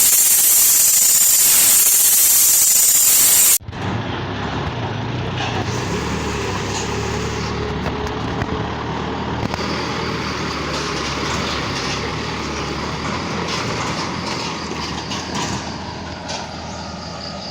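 A loud, even hiss for about the first three and a half seconds that cuts off suddenly, then a truck engine running at low speed, a steady drone.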